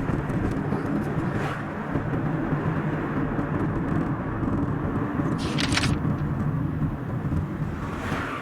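A car driving along a road, played back at double speed: a steady rumble of engine and tyre noise, with a short hiss about five and a half seconds in.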